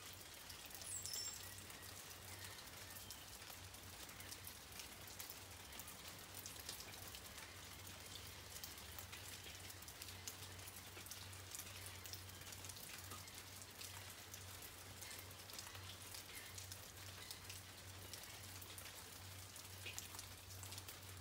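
Light rain falling steadily, with many separate drops ticking against an even hiss.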